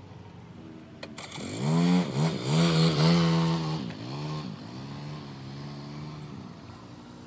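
A motor vehicle's engine revving up about a second and a half in, dipping and picking up again a few times, then running on more quietly and fading out near the end.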